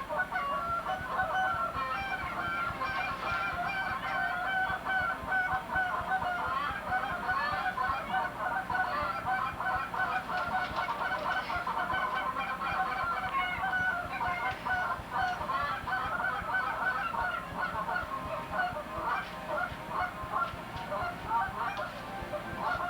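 Many birds calling at once, a dense, unbroken run of short calls.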